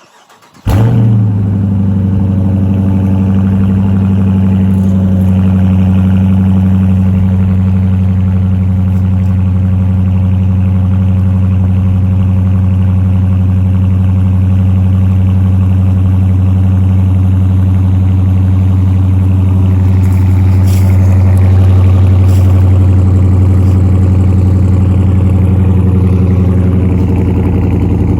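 2018 Dodge Charger R/T's 5.7-litre Hemi V8 cold-starting: it catches suddenly under a second in with a brief flare, then settles into a steady idle.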